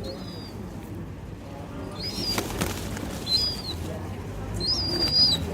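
Birds gathering to be fed: short, high, arched calls about four times, the longest near the end, with a flurry of wing flapping about two seconds in.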